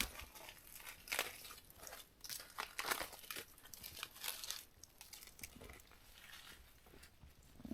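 Dry, papery birch bark being peeled off a dead birch and handled, giving irregular crinkling crackles and short tearing sounds.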